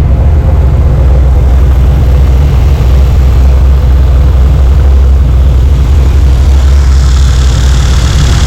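406 small-block Chevy V8 idling steadily and loudly.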